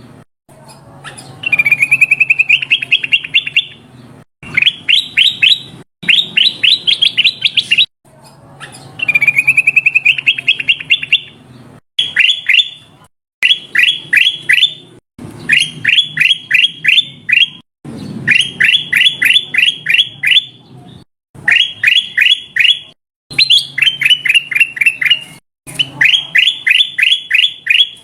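Ruby-throated bulbul ('kutilang emas') calling in a loud lure recording: a string of short phrases, each a rapid series of about five sharp chirps a second, some opening with a rising trill, separated by brief pauses. A faint low hum runs underneath.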